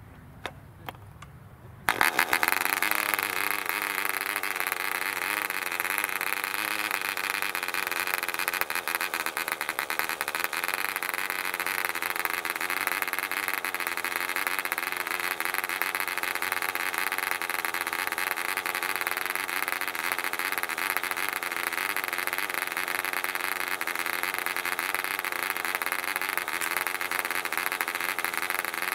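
Barbini B.38 1cc model-aircraft diesel engine with a 7x4 propeller, starting abruptly about two seconds in after two faint clicks, then running steadily at a high pitch that wavers slightly. The wavering is the somewhat uneven running of a new engine not yet broken in.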